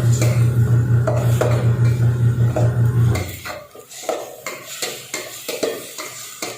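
A metal utensil clinking and scraping against a cooking pan as food is stirred, in many short knocks. A steady low hum runs underneath and cuts off about three seconds in.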